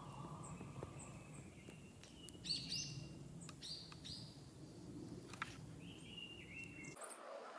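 Small birds chirping in short calls at several pitches, over a steady low outdoor background, with a few sharp clicks.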